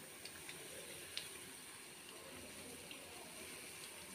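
Breadcrumbed potato kababs deep-frying in oil over a low flame: a faint, steady sizzle, with a few light clicks of metal tongs as the kababs are turned, the sharpest about a second in.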